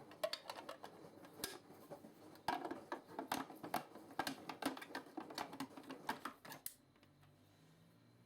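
Quick irregular clicks and knocks of hard plastic parts being handled, then a faint low hum near the end.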